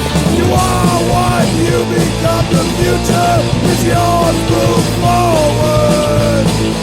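Punk rock band recording in an instrumental passage: a lead melody line with bent notes plays over full-band backing with drums.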